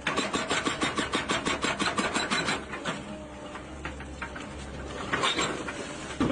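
Rapid, even mechanical clatter of about ten clicks a second over a low, steady engine drone; the clatter stops after about two and a half seconds and comes back briefly near the end.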